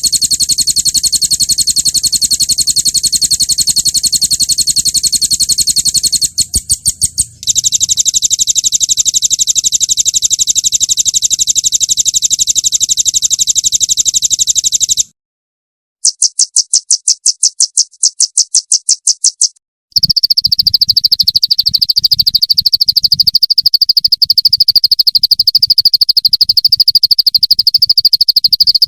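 Recorded songbird rapid-fire trills ('roll tembak'), high and rattling, played as a bird-training track. Several clips are cut back to back: a long fast trill broken briefly about six seconds in, a short silence around fifteen seconds, a slower pulsed rattle, then a steadier, lower trill from about twenty seconds in.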